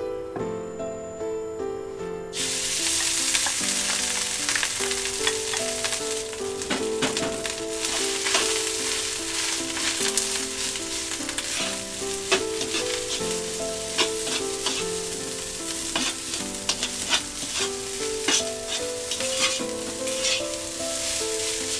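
Food frying in hot oil in a wok. A loud sizzle starts suddenly about two seconds in and carries on, with scattered clicks and scrapes of stirring as the rice is fried. A melodic music track plays underneath.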